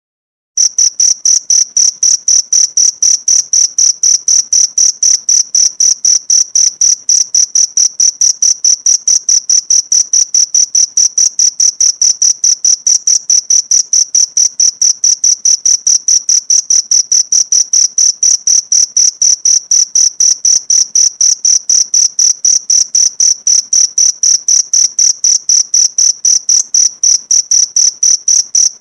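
Cricket chirping in a fast, even rhythm of about four high-pitched chirps a second, starting abruptly out of silence about half a second in.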